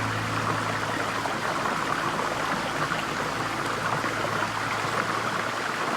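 Steady rushing of flowing stream water, with a low held music note fading out over the first second or two.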